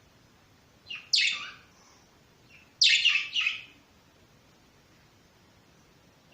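Budgerigars giving loud, short chirping calls, each falling in pitch: one about a second in, then two or three in quick succession around three seconds in.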